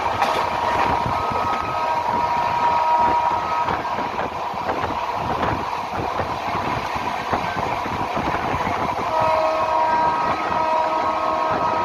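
Passenger train running at speed, heard from an open coach door: wheels rumbling and clattering over the rails with rushing air. A steady high tone sounds for a couple of seconds near the start and comes back about three-quarters of the way through.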